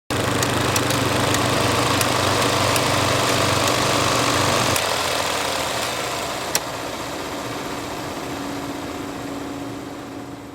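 Film projector mechanism running: a steady mechanical whir with scattered sharp clicks. The low hum drops away about halfway through, one louder click follows, and the sound fades out at the end.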